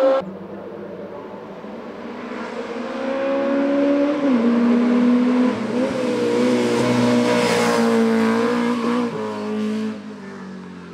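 Race car engine at high revs, growing louder as the car approaches, with a few sudden steps in pitch at gear changes, then dropping away as it goes past.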